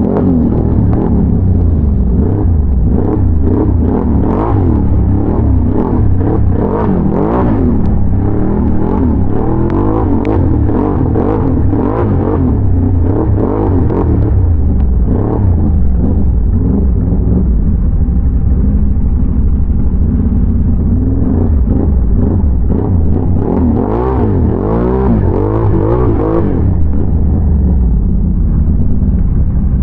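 ATV engine running under way with a heavy low rumble, revving up and down again and again as the throttle is worked. Between the bursts it settles to a steadier drone for a while, then revs hard once more and eases off near the end.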